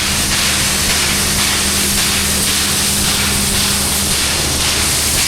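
Steam locomotive hissing steadily as it vents steam, with a steady low hum underneath.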